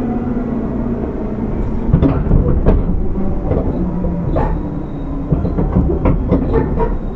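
JR West 205 series electric train (car MoHa 205-103, MT64 traction motors) heard from inside the car while running: a steady rumble, with sharp clacks of the wheels over rail joints starting about two seconds in.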